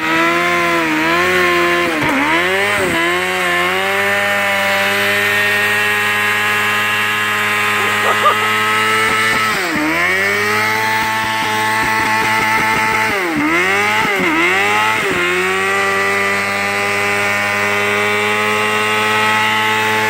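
Street motorcycle engine held at high revs during a burnout, the rear tire spinning against the pavement; the revs stay high and steady, with several brief dips and recoveries.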